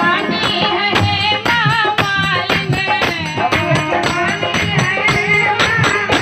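Folk music: a wavering melody over a steady beat of drum and jingling percussion strikes.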